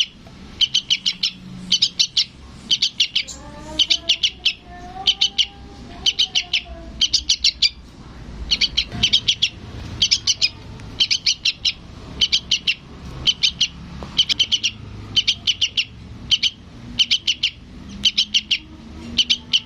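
Juvenile sooty-headed bulbul (trucukan) begging for its parent: bursts of four or five rapid, high chirps, each burst about half a second long, repeated over and over with short pauses.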